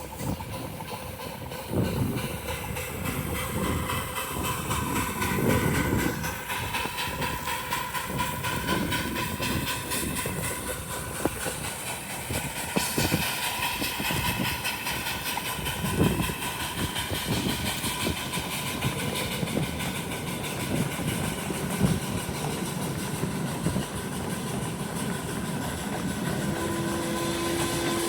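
A 7.5-inch gauge ride-on miniature train running along its track, with wheels clicking and rumbling over the rails. A steady pitched tone starts near the end.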